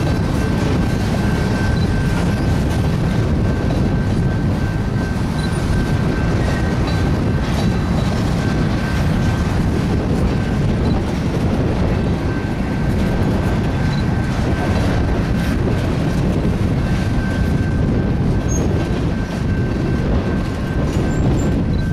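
Mixed freight train of boxcars and covered hoppers rolling past at close range: a steady, loud rumble of steel wheels on the rail joints. A thin high squeal from the wheels comes and goes above it.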